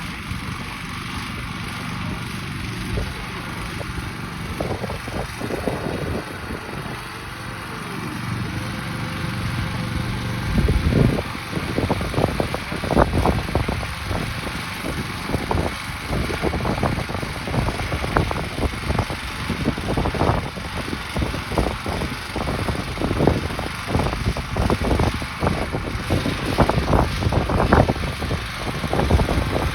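Grillo walk-behind tractor engine running steadily. From about ten seconds in it works under load, louder and uneven, with repeated irregular thumps as the implement tears into the ground.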